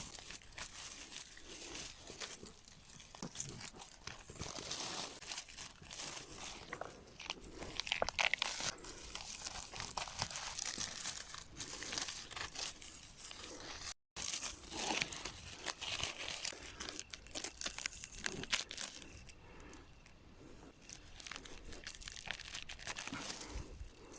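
Dry leaves and twigs rustling and crackling as wild mushrooms are picked by hand from the forest floor: many small irregular crunches and snaps. The sound cuts out briefly a little over halfway.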